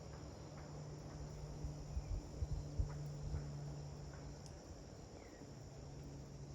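Outdoor ambience: a steady insect chorus, with a low steady hum underneath and a few faint short chirps. A cluster of low thumps comes between about two and three and a half seconds in.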